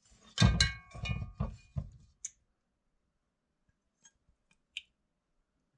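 Dishes and a utensil clinking: a quick run of ringing knocks in the first two seconds, then a few light clicks.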